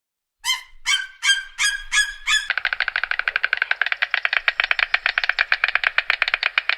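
Bird honking: about six nasal, goose-like honks in quick succession, then a fast, dense chattering of rapidly repeated calls.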